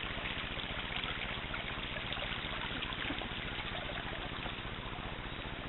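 Running water of a river: a steady, even rush of flowing water.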